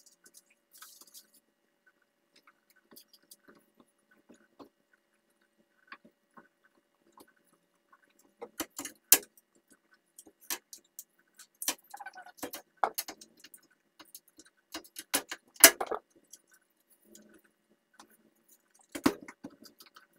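Intermittent sharp clicks and knocks from handling things while cleaning a kitchen oven. They are faint and sparse at first, then louder and more frequent from about eight seconds in, with one more near the end.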